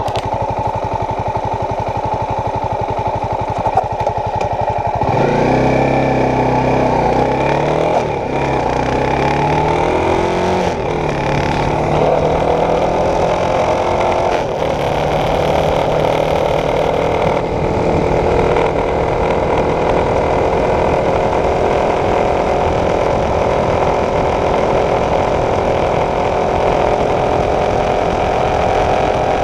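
Honda CB300F's single-cylinder engine idling with rapid low pulses, then pulling away about five seconds in and rising in pitch through several gear changes before settling into a steady cruise.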